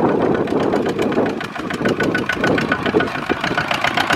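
Small diesel engine of a farm tractor or rice truck running with a fast, even knocking beat.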